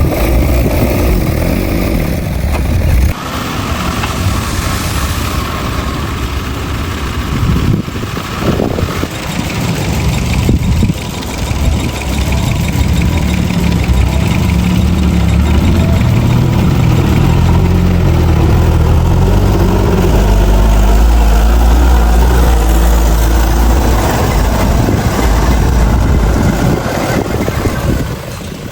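Heavy diesel engine of earthmoving machinery running loud and continuously, with the low rumble dipping briefly a few times and at its heaviest in the later part.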